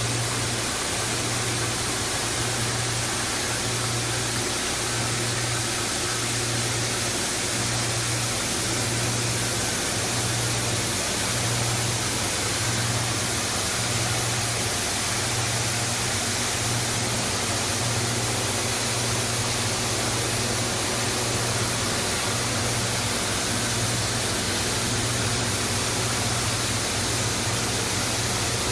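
PE/PP plastic washing line running: a steady rush of water and machinery noise over a low hum that pulses about once a second.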